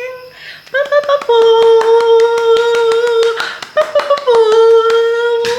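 A woman singing wordless held notes, twice: each phrase starts on a short higher note and drops into a long steady note, with rapid clicks throughout.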